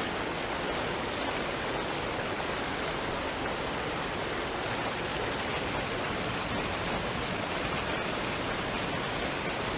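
Waterfall and stream water rushing in a steady, even wash with no changes.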